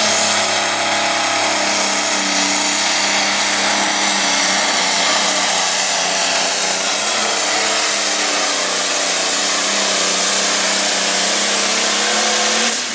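A turbocharged diesel pulling tractor running at full power under load. A high turbo whine rises at the start and then holds steady, and the sound drops off sharply at the very end.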